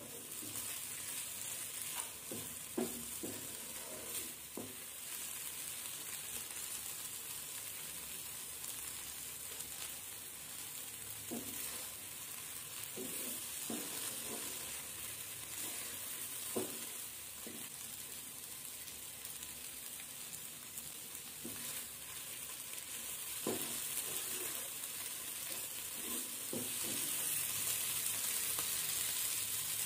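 Prawns in masala sizzling in a nonstick frying pan while a wooden spatula stirs and scrapes through them, with scattered short knocks of the spatula on the pan. The sizzle gets louder near the end.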